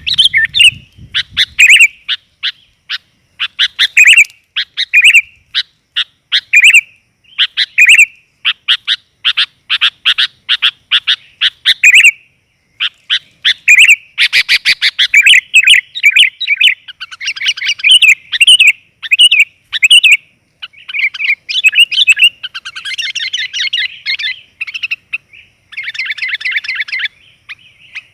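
Sooty-headed bulbul (kutilang) calling loudly and continuously: quick runs of sharp chirps in short phrases, one after another. It is a female's call, used as a lure to draw in male bulbuls.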